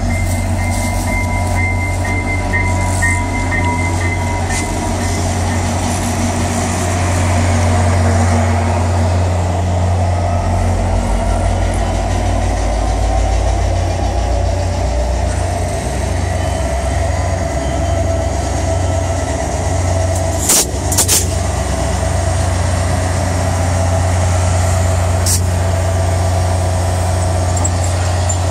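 Via Rail diesel passenger train arriving: two locomotives pass at close range with a steady low diesel drone over the rumble of wheels on rail, followed by the passenger cars rolling by. A few sharp clicks or knocks come about 20 seconds in and again about 25 seconds in.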